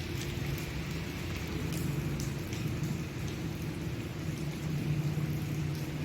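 Steady rain falling, with scattered drops ticking sharply on a surface, over a low steady rumble.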